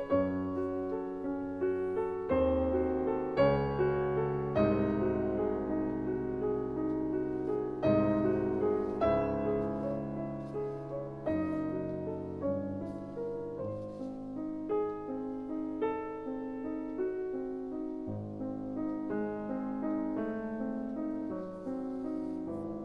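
Background piano music: a slow, gentle piece of single struck notes and chords.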